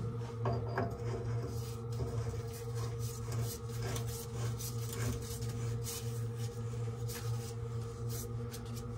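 A steady low hum with faint, scattered light clicks and handling sounds over it.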